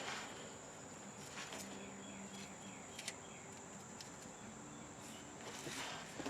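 Faint steady chirping of crickets or similar insects, with a few quiet clicks and short rustles from hand work under the truck, about a second and a half in and again near the end.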